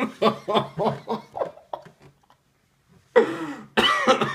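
A man laughing in a quick run of short pulses, then coughing twice, loudly, a couple of seconds later; he has a cold.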